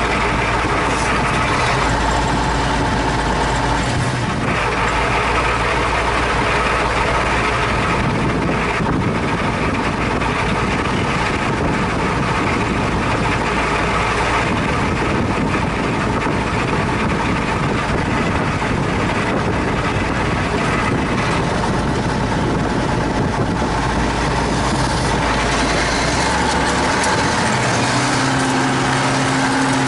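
T-150K wheeled tractor's diesel engine running steadily under load, pulling a cultivator in low gear. Its note changes near the end.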